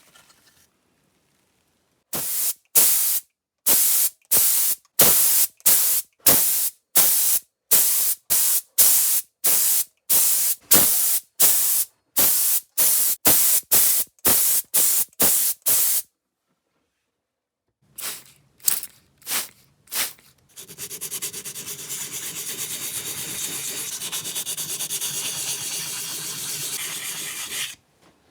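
Sandpaper rubbed back and forth by hand, about two strokes a second, with a pause. A few more strokes follow, then a steady hiss of about seven seconds near the end.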